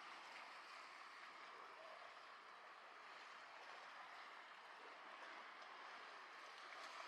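Faint, steady wash of outdoor ambience, a hiss-like noise with no distinct events.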